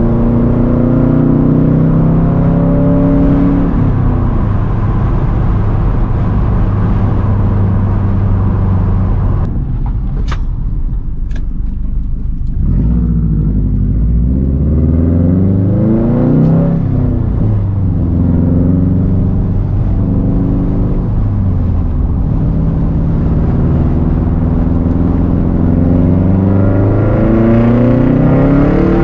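Loud exhaust of a 2013 Subaru WRX STI's turbocharged 2.5-litre flat-four through a Tomei Expreme Ti titanium exhaust and catless downpipe, on the move: the engine note climbs and drops with the revs several times, holding steady between. There is a quieter dip about ten seconds in with two short clicks, and the revs climb again near the end.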